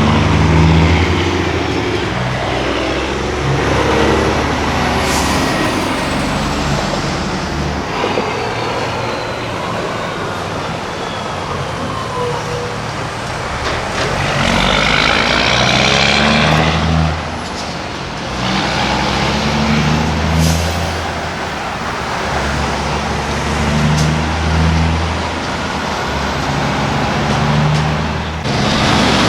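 Diesel semi trucks running past, an engine climbing in pitch and dropping back several times as it shifts up through the gears. A hiss of compressed air sounds about halfway through.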